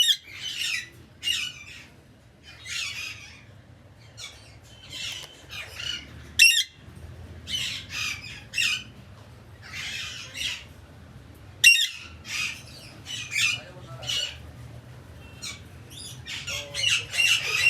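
Birds squawking in a long run of harsh, raspy calls, one or two a second. Sharper, louder calls come right at the start, about six and a half seconds in, and about twelve seconds in. A low steady hum runs underneath.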